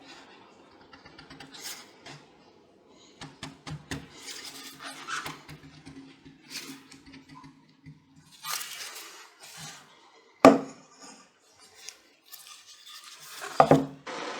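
Small hard objects being handled: irregular clinks, light scrapes and taps, with a sharp knock about two-thirds in and another near the end.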